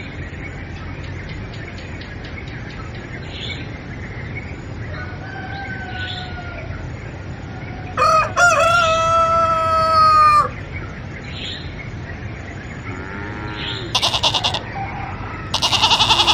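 A rooster crowing once, a long drawn-out call, with fainter clucking calls around it. Near the end a loud rasping noise starts.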